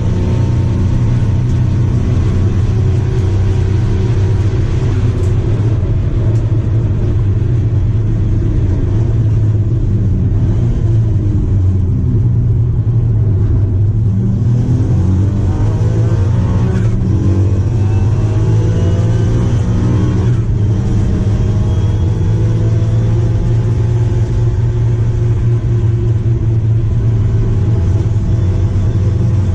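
Daihatsu Charade GTti's 993cc turbocharged three-cylinder engine heard from inside the race car's cabin. It starts at high revs, falls in pitch as the car brakes and shifts down for a slow corner about halfway in, then revs up again with rising pitch through a couple of upshifts.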